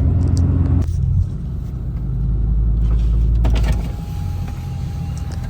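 Car engine and road noise heard from inside the cabin while driving, a steady low rumble that dips slightly about a second in, builds again and eases off near four seconds in.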